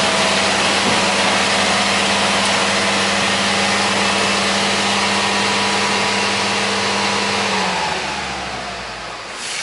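Road-construction machinery running loud and steady, a strong engine hum under a wide rushing noise. About eight seconds in, the hum slides down in pitch and the noise fades as the machine winds down or moves off.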